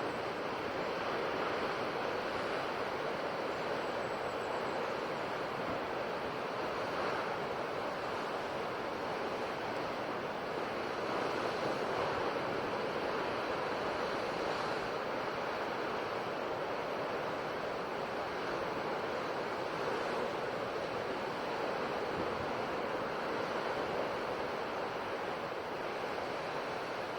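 Ocean waves washing onto a shore in a steady, continuous surge with gentle swells in loudness.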